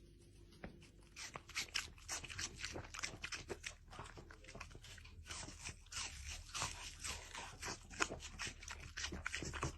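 An animal chewing something crunchy: many quick, irregular crunches starting about a second in.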